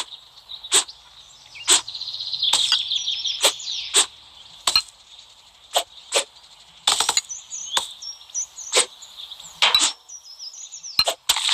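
A knife slicing with sharp chopping strokes, roughly one a second and a little uneven, over a steady high chirping in the background.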